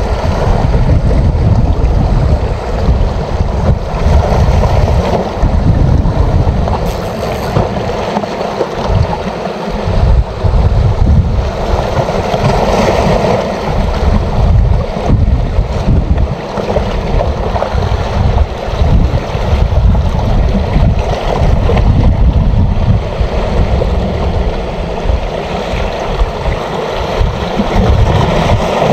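Wind buffeting the microphone in uneven gusts, over the wash of sea waves.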